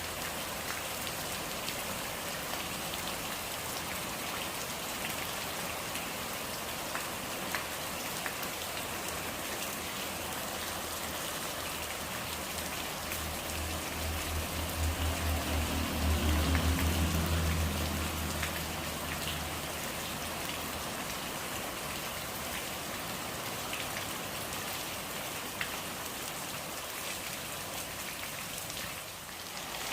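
Steady rain falling, with scattered drop ticks. About halfway through, a low rumble swells for several seconds and fades.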